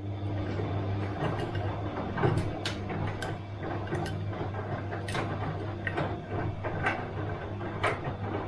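Bosch front-loading washing machine running: a steady low motor hum that strengthens right at the start, with irregular clicks and knocks about once a second as the drum turns.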